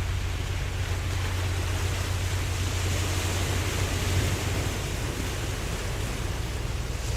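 Ocean waves washing steadily in a continuous hiss of surf, over a steady low rumble.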